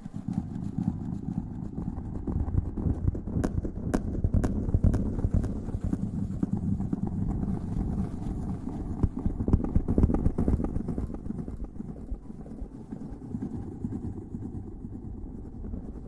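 Close-miked ASMR rustling and scrubbing against the microphone: a dense, low, crackling rub with a few sharp clicks about four seconds in.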